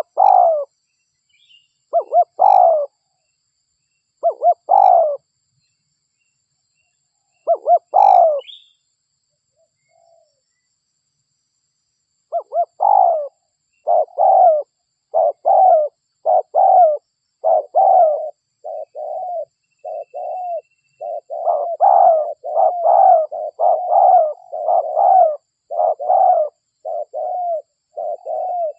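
Derkuku dove cooing: a few short coo phrases spaced a couple of seconds apart, then, from about twelve seconds in, a fast unbroken run of coos, roughly two a second. This is a lure call meant to draw wild derkuku in.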